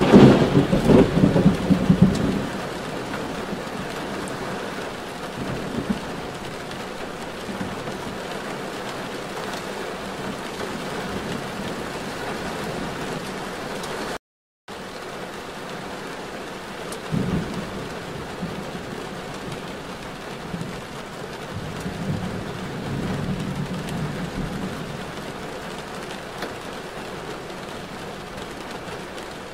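Rain falling steadily, with a loud low rumble in the first two seconds and softer low rumbles later on. The sound cuts out completely for a moment about halfway through.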